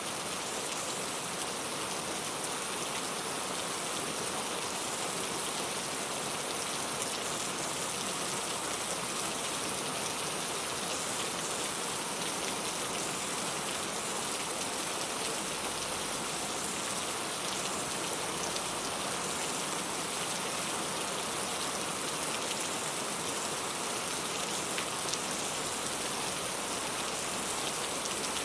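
Steady rain falling, a dense even hiss with many fine drop patters and no lulls.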